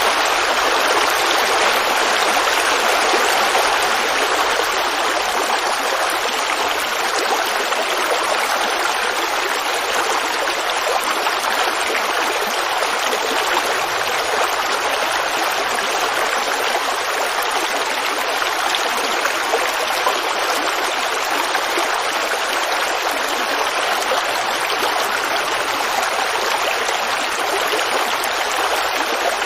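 Forest creek babbling over rocks, a steady rushing and trickling of running water.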